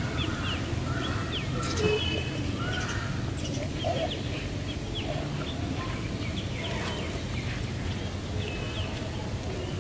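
Small birds chirping over and over in short, quick downward notes, with a few other brief calls, over a steady low rumble of outdoor background noise.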